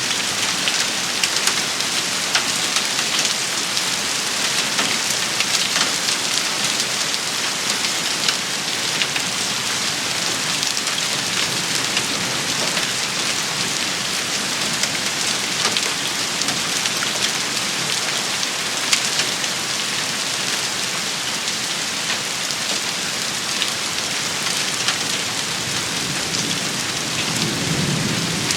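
Steady heavy rain shower, with many sharp individual drop hits throughout and a brief low rumble near the end.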